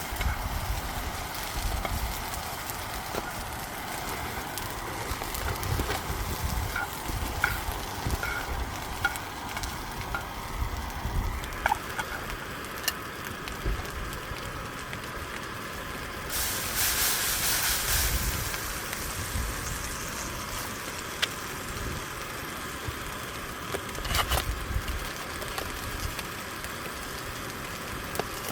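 Beef rump steak sizzling in a frying pan, a steady hiss with small pops, growing louder for a moment at about 17 seconds.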